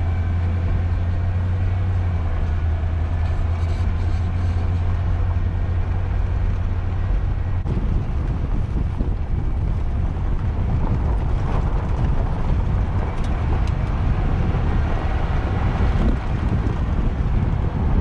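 1992 Ford F150's 302 V8 heard from inside the cab while driving: a steady low engine drone for the first half, giving way from about eight seconds in to a rougher rush of road and wind noise.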